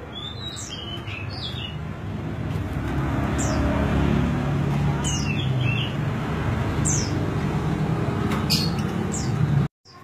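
Large niltava (Niltava grandis) giving short, high, thin calls that slide downward, about six of them, a few followed by quick twittering notes. Under them runs a low rumbling background noise that swells in the middle. The sound cuts out abruptly just before the end.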